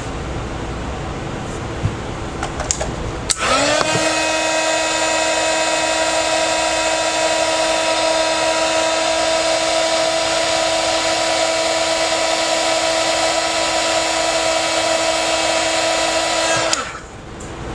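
A small electric tool motor spins up quickly, runs at a steady pitch with a whine for about thirteen seconds, then switches off. Before it starts there are a few light clicks.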